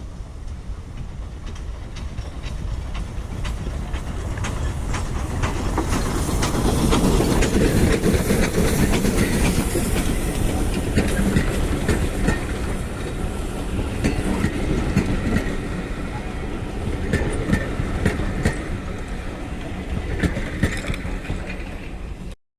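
Train running past on the line, its wheels clicking over the rail joints. The sound builds to its loudest about seven seconds in, then eases but carries on until it cuts off suddenly at the very end.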